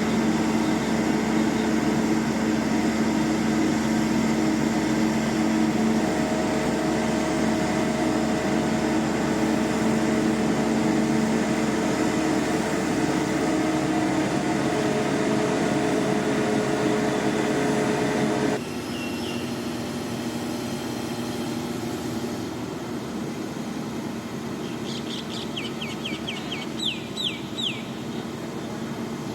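Heavy construction machinery's engine running at a steady pitch. About two-thirds of the way through the sound cuts abruptly to a quieter background, and near the end there is a quick run of short, high, falling chirps.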